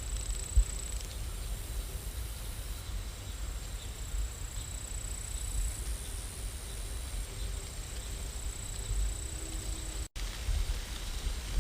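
Steady rain ambience: an even hiss of falling rain over a low rumble, with a momentary cut-out about ten seconds in.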